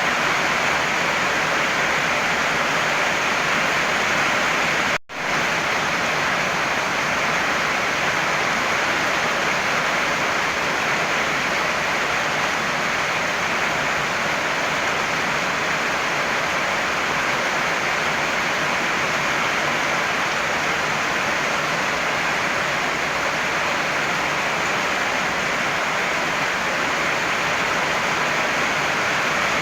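Heavy rain falling in a steady, even hiss, with no thunder. The sound drops out for an instant about five seconds in, then carries on unchanged.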